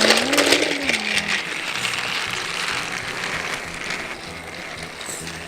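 Motorized Thomas TrackMaster toy train running on plastic track: a steady small-motor whir with wheel rattle, with some clicking near the start.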